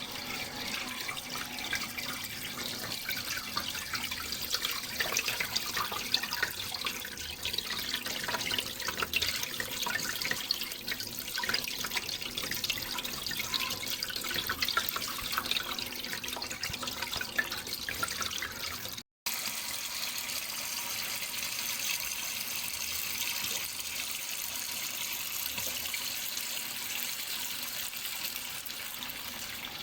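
Running water splashing and trickling steadily, with fine droplet splashes through it. About two-thirds of the way through it cuts out for an instant, then resumes smoother and more even.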